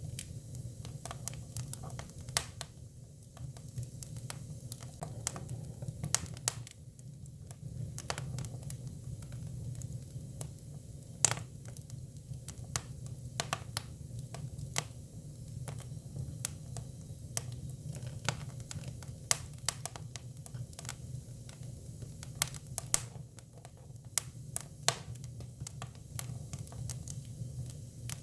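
Hinoki cypress firewood burning, crackling with irregular sharp pops over a steady low rumble, a few pops louder than the rest.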